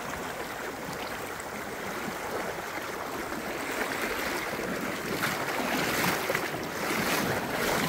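Fast-flowing mountain creek rushing steadily, with splashing from someone wading through the thigh-deep current growing louder in the second half.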